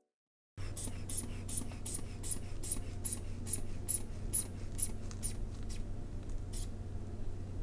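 Blood pressure cuff being pumped up with its rubber hand bulb: a quick, even run of short hissing squeezes, about three a second, over a steady low hum. The squeezes slow and stop about six seconds in as the cuff reaches pressure.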